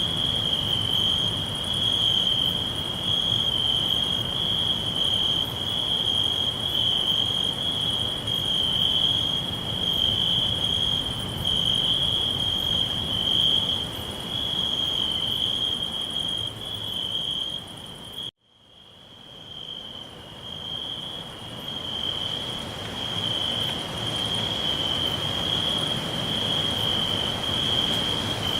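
Crickets chirping in a continuous high-pitched trill over a low background rumble. About 18 seconds in, all the sound cuts out abruptly and then fades back in over a couple of seconds.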